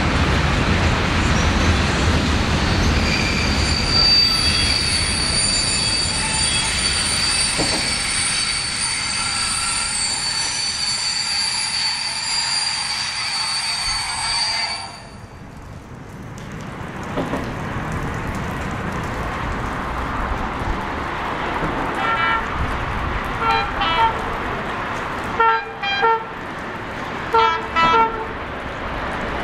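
A freight train of covered steel-coil wagons rolling past, wheels squealing with high steady tones, until its last wagon clears about halfway through. Then another train's rumble builds and a locomotive horn gives a series of short toots, several in quick pairs, near the end.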